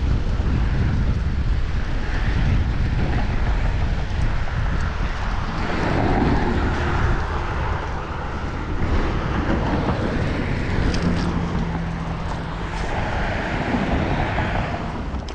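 Wind buffeting a chest-mounted action camera's microphone during a bicycle ride, with road noise and traffic swelling past every few seconds.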